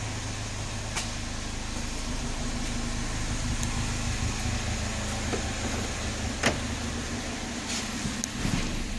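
2003 Saturn Ion's 2.2-litre four-cylinder engine idling steadily, with a couple of sharp clicks, one about a second in and a louder one about two-thirds of the way through.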